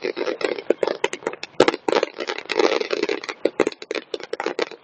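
Fireworks display going off: a dense run of crackling pops and bangs, with one sharper bang about one and a half seconds in.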